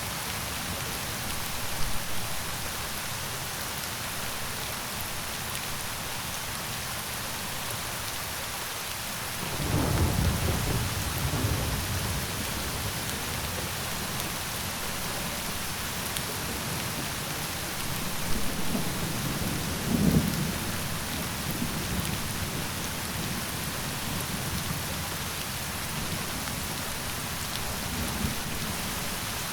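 Steady rain falling, with thunder rolling in low rumbles about a third of the way in and again around two-thirds through.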